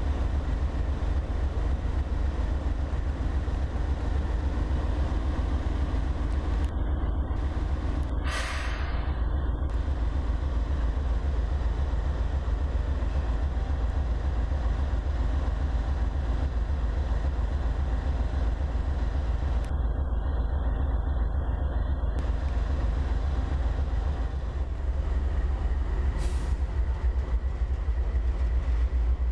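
Diesel-electric freight locomotives and their train passing close by, with a steady low rumble. A sharp hiss sweeps down in pitch about eight seconds in.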